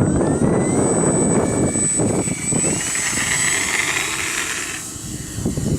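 Small RC Cessna's brushless electric motor and propeller whining, rising steadily in pitch as the throttle is opened, over heavy wind buffeting on the microphone.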